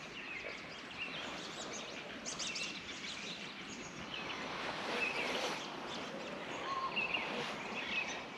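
Birds chirping and calling, many short calls scattered throughout, over a steady outdoor hiss.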